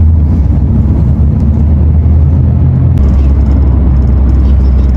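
Car driving through a road tunnel: a steady, loud low rumble of engine and tyre noise that drops slightly in pitch about three seconds in.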